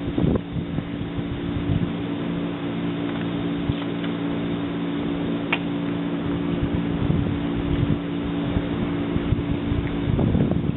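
Steady hum of a JR East 185 series electric train, several constant low tones held over a rumbling noise, with wind on the microphone. A brief high chirp cuts through about five and a half seconds in.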